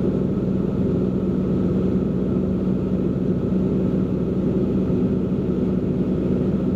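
Steady drone of a Cessna P210N's turbocharged six-cylinder engine and propeller in level flight, heard from inside the cabin.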